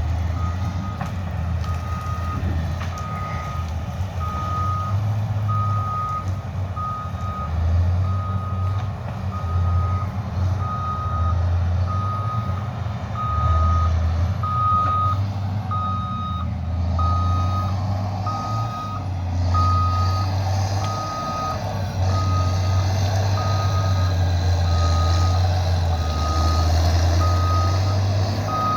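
Reversing alarm on a heavy diesel vehicle, beeping a single steady tone about once a second over the engine's low running drone, which swells and eases as the machine works.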